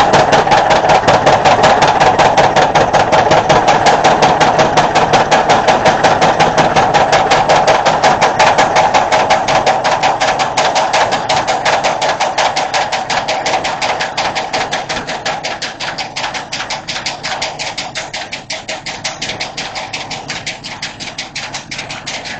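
A 25-pound Little Giant mechanical power hammer running, its ram pounding a hot welded wire-rod billet in a fast, steady train of loud blows as the billet is drawn out into a rectangular bar. The blows grow gradually quieter over the second half and stop suddenly at the end.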